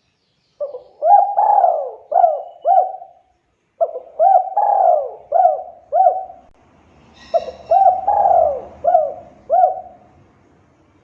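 A dove cooing in three phrases, each a short note, one long drawn-out coo, then two or three short coos.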